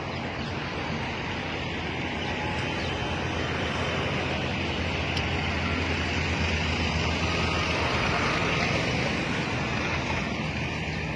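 SUVs towing loaded farm trolleys driving past close by: engine and tyre noise that builds to a peak about eight seconds in and then eases off.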